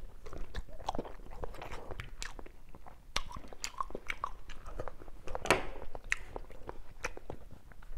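A person eating close to the microphone, chewing a piece of cooked cucumber stuffed with pork taken from the soup, with scattered small clicks and mouth smacks.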